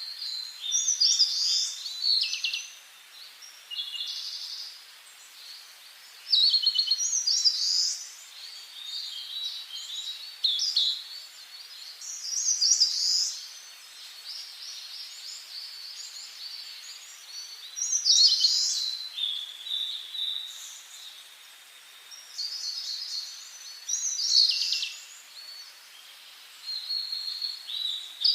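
Songbirds singing in a forest: short, high-pitched phrases of quick notes, trills and glides, one every few seconds, over a faint steady background hiss.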